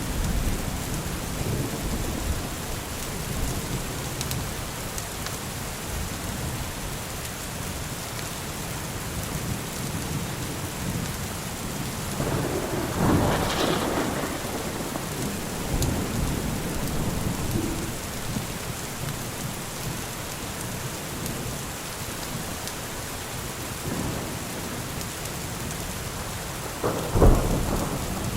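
Steady heavy rain with thunder: a rolling peal swells and fades about halfway through, and a sharp, loud crack of thunder comes near the end.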